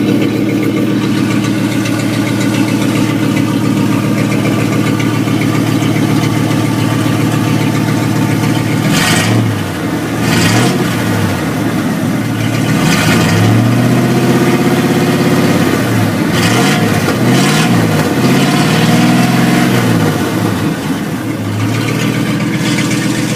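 1992 Ford F-250's engine running with no exhaust fitted. It idles steadily for about nine seconds, then is revved in several quick blips with the pitch rising and falling, and settles back to idle near the end.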